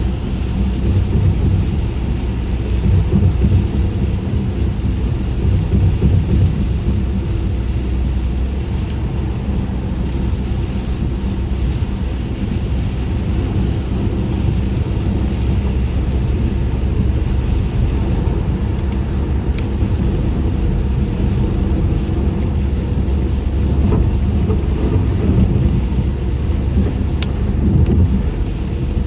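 Steady low road and tyre rumble heard inside a closed car cabin while driving on a rain-wet road, with a light hiss of water from the tyres over it.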